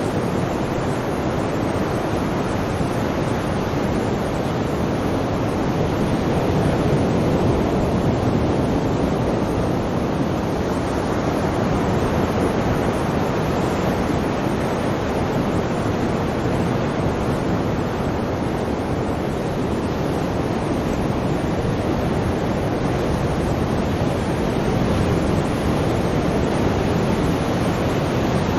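Sea waves: a steady, continuous rush of surf that swells slightly a couple of times.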